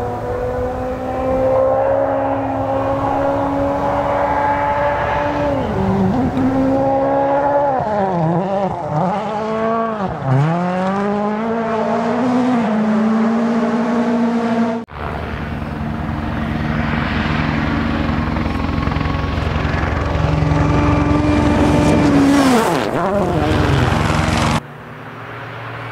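Rally car engines at high revs on a stage. The first car holds its revs, then the pitch drops and climbs again several times through lifts and gear changes. After a sudden cut a second car holds a steady high note, then falls away near the end.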